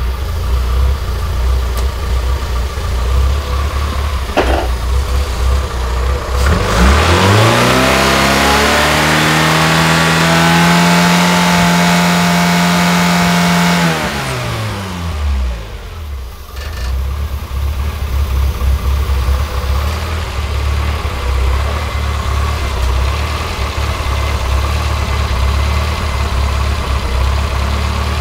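Austin Metro's A-series four-cylinder engine idling, then revved up about six and a half seconds in and held at steady higher revs for several seconds before dropping back to idle, as its ignition timing is being set.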